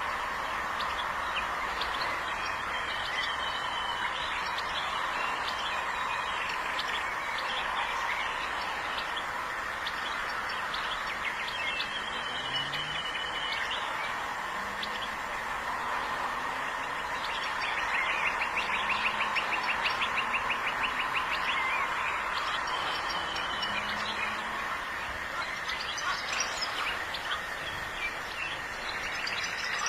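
European goldfinch singing: a run of quick twittering notes, with a fast trill about two-thirds of the way through, over a steady background hiss.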